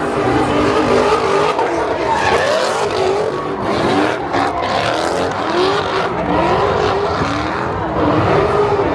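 Car engines revving hard, their pitch rising and falling over and over, with tyre squeal and skidding.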